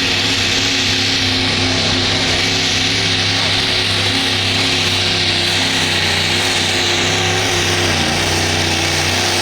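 Competition pulling vehicle's engine running loudly at a steady speed, its pitch holding level, with a rough hissing edge over the engine note.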